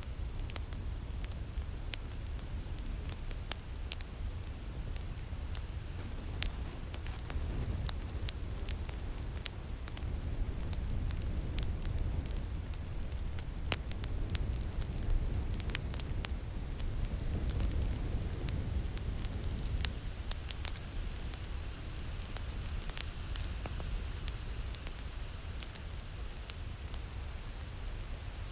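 Wood fire crackling with frequent sharp pops over a steady low rumble of wind, as in a winter wind and fireplace ambience.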